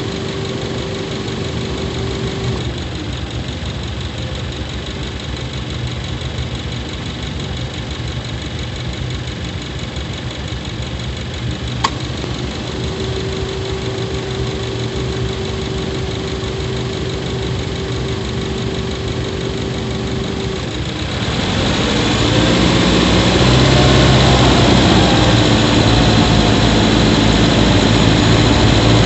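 Subaru Levorg 1.6GT-S's 1.6-litre turbocharged flat-four engine, heard from inside the engine bay near the intake, running steadily with a thin steady tone that drops out and comes back. A single click about twelve seconds in; about twenty-one seconds in the engine gets louder and its pitch starts to waver as it comes under load.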